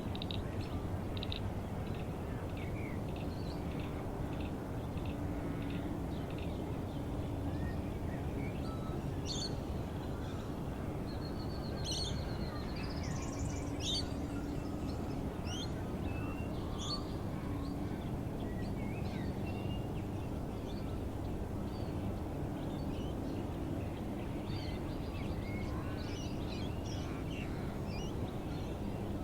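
Mixed wild birds chirping, whistling and calling, many short overlapping calls, busiest about halfway through, over a steady low background rumble.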